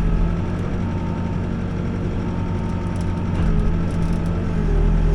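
Backhoe's diesel engine running steadily, easing off slightly and then picking up again near the end.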